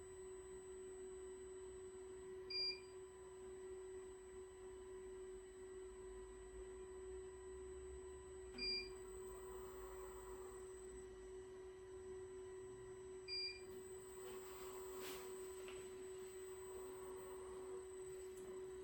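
A steady electrical hum holding one low pitch, with three short electronic beeps spaced about five seconds apart and some faint clatter in the second half.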